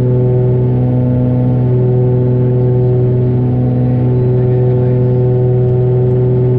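Cabin drone of the Cessna 414A's twin piston engines and propellers at climb power: a loud, steady hum with a strong low tone and even overtones.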